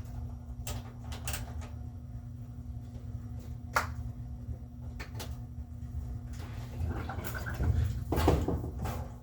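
Scattered knocks and clunks of hands working on a washing machine during a repair, over a steady low hum. A denser run of clattering near the end is the loudest part.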